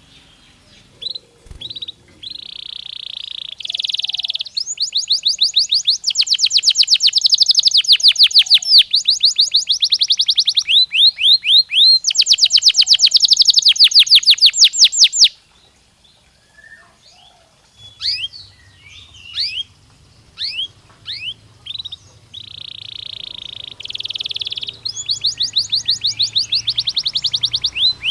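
Domestic canary singing: long rolls of rapidly repeated sweeping notes and buzzy trills. About halfway through the song breaks into a few seconds of scattered single chirps, then the trills start again.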